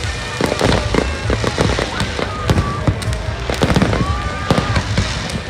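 Fireworks going off in rapid succession: many sharp bangs and crackling reports, with a few thin whistling tones over them about two and four seconds in.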